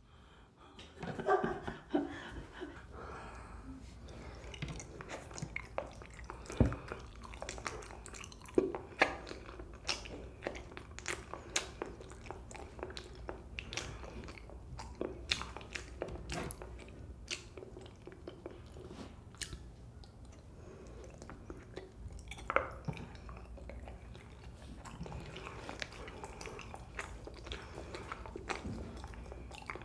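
A person chewing green grape Kyoho jelly balls close to the microphone: sticky mouth sounds with many irregular sharp clicks and smacks throughout.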